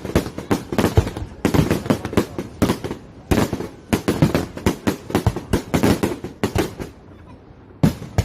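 Aerial fireworks going off in rapid succession: many sharp bangs, thunder-like and overlapping, then a short lull about seven seconds in before another bang near the end.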